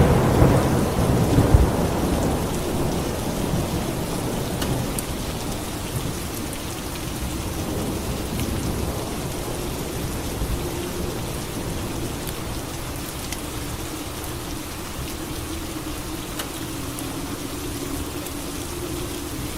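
A thunderclap right at the start, rumbling and fading away over the first few seconds, then steady rain with scattered drips.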